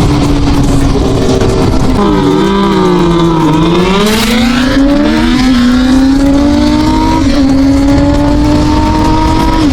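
Inline-four sport motorcycle engine pulling hard at speed. Its pitch drops about two seconds in, then climbs, with short steps down about five and seven seconds in as it shifts up, over a steady rushing noise.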